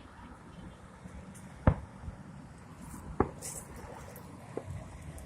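Three sharp bangs of fireworks bursting, the first and loudest a little under two seconds in, then two fainter ones about a second and a half apart.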